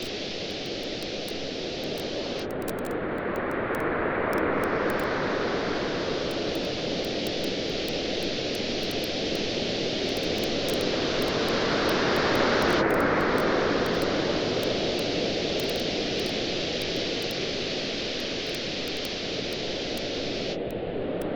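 Waves washing on a beach, surging twice in slow swells, with a bonfire crackling in small sharp pops throughout.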